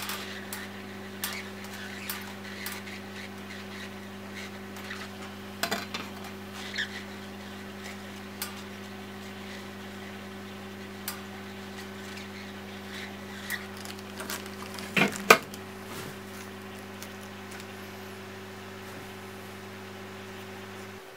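Small hard clicks and light clatter of metal tools and laptop parts being handled on a workbench, over a steady low machine hum that cuts off near the end. The loudest clatter comes in a brief cluster about two-thirds of the way in.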